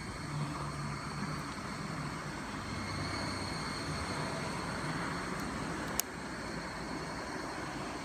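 Distant rumble of an approaching JR West 115 series electric train, rising slightly at first and then holding steady, with insects chirping in steady high tones. A single sharp click about six seconds in.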